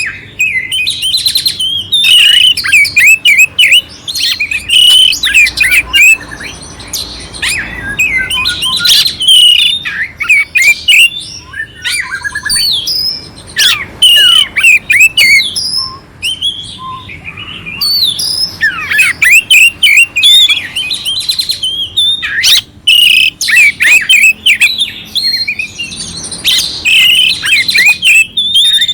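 Oriental magpie-robin (kacer) singing a loud, rapid, varied song of clear whistled phrases mixed with rough, harsh fill-in notes, in runs broken by brief pauses.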